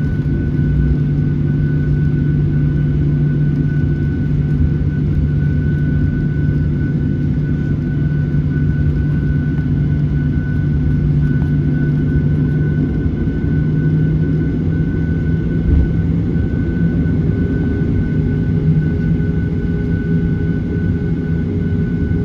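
Cabin noise of a Boeing 737-800, its CFM56-7B jet engines running at low, steady power: a continuous low drone with a few steady hum tones, the pitch of the hum shifting slightly a little past halfway.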